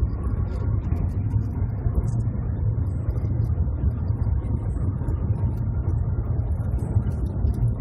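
Shanghai Maglev train running at its top speed of about 431 km/h, heard inside the passenger cabin: a steady, loud low rumble.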